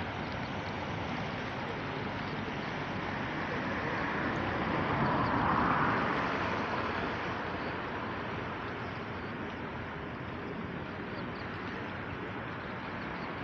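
Flooded river water rushing steadily, a broad continuous noise that swells for a few seconds about five seconds in and then settles back.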